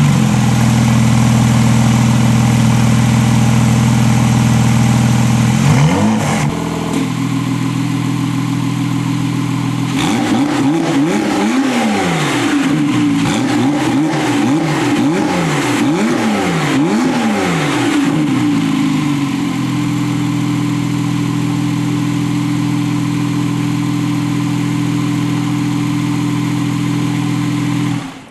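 Porsche 991.2 flat-six engine heard through its exhaust, running steadily at first, with a brief dip and rise in revs about six seconds in. From about ten seconds in it is blipped up and down about five times in quick succession, then settles back to steady running until the sound cuts off suddenly near the end.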